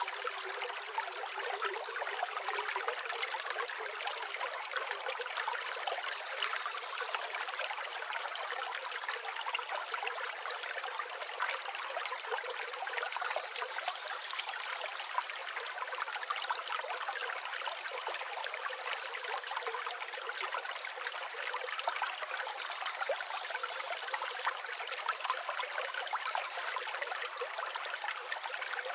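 River water flowing steadily, an even rushing and trickling with no breaks.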